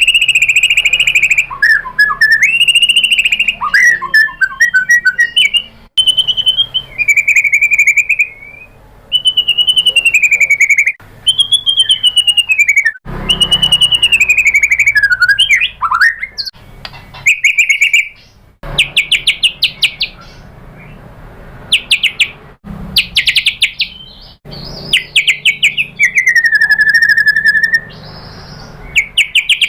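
White-rumped shama singing loudly: varied whistled phrases that glide up and down in pitch, broken by bursts of rapid rattling notes.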